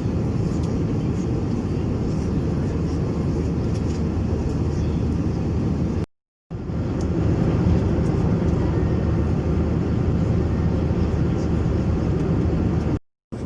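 Steady low rumble of an Airbus A321-200's engines and airflow heard inside the passenger cabin. The sound drops out to silence twice, briefly.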